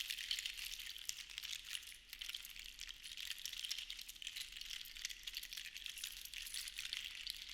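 Seashells rattling and clicking against one another in a dense, continuous patter that swells and eases, dipping briefly about two seconds in.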